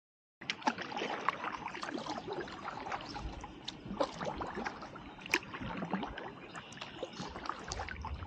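Kayak paddle strokes: water splashing and trickling off the paddle blades in a dense, irregular patter of small splashes. It starts abruptly just after the beginning.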